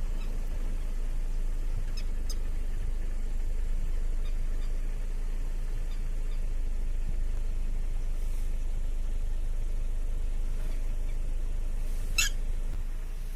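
A steady low rumble with a few faint, short bird chirps, and one clearer, brief chirp near the end.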